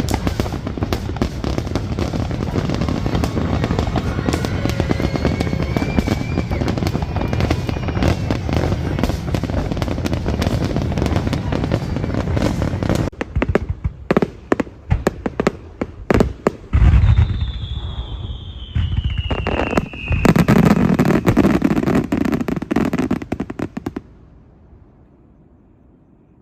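Fireworks going off: rapid, continuous crackling and bangs that thin out about halfway through. Then comes a loud bang with a falling whistle, a last burst of crackling, and the sound dies away near the end.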